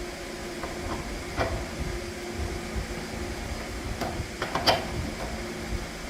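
Steady machine hum with a few sharp clicks and knocks, the loudest about a second and a half in and near the end, as of parts or tools being handled.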